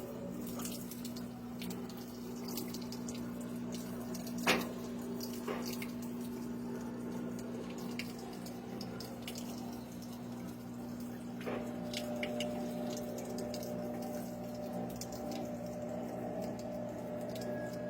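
Washing machine running: water splashing and dripping inside over a steady low hum, with scattered small clicks and a sharper knock about four and a half seconds in.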